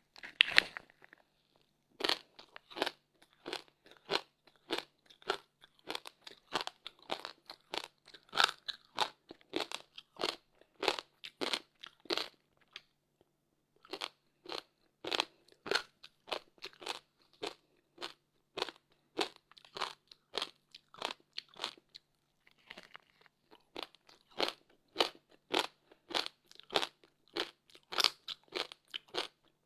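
Close-up crunching and chewing of frozen passion fruit ice, a run of sharp crunches about two a second, with brief pauses about 13 and 22 seconds in.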